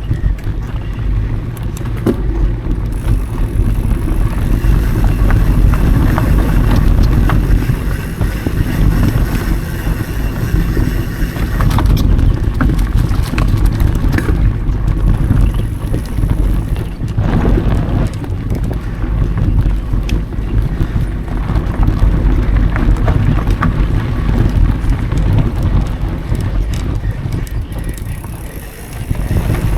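Mountain bike ridden over dry dirt singletrack, heard through an action camera's microphone: a continuous low rumble of tyres and wind buffeting, with frequent small rattles and clicks from the bike. The noise eases briefly near the end.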